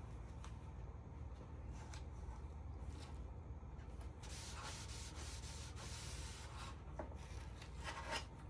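Oil-based red oak wood stain being rubbed onto a wooden shelf: a soft, scratchy rubbing that grows louder about four seconds in, over a low steady hum.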